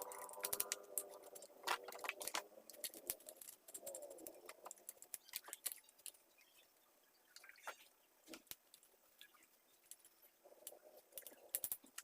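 Faint, irregular light clicks and taps from a mini chainsaw being handled and cleaned.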